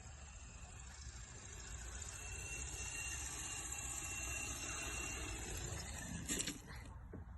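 Ikarus Eco 8 electric RC helicopter, its brushed motor and rotors whirring faintly with a thin high whine, getting louder over the first few seconds. There is one sharp knock about six seconds in.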